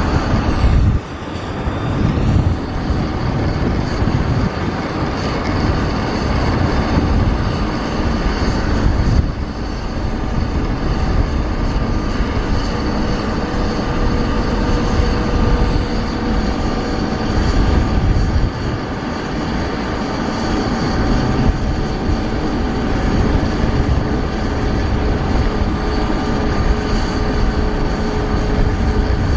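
Boeing 737 jet engines running steadily and loud: a deep rumble with a steady multi-tone whine over it.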